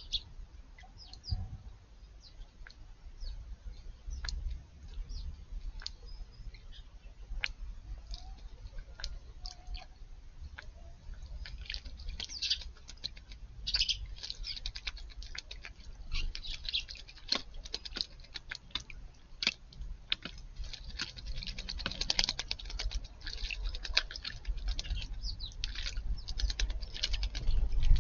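Blackbirds bathing in a shallow garden pond, flicking water with quick crackly splashes. The splashes are scattered at first and come fast and frequent in the second half, with a few faint chirps.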